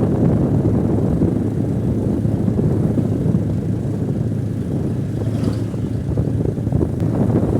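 Motorcycle running at a steady pace on the road, a constant low engine hum under a rush of wind and road noise.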